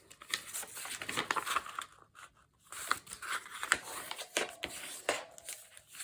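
Sheets of dyed paper being folded and creased with a bone folder: rustling and scraping strokes, in two spells with a short pause about two seconds in.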